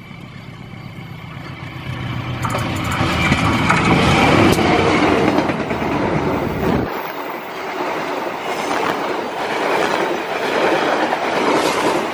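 Diesel-electric locomotive hauling a local passenger train, growing louder as it approaches and passes close by. Its low engine rumble drops away about seven seconds in, and the passenger coaches roll past with their wheels clattering on the rails.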